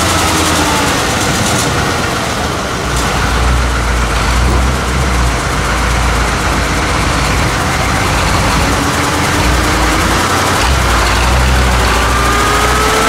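Off-road truck engines running loudly in dense noise, with a rising engine note near the end as one revs up.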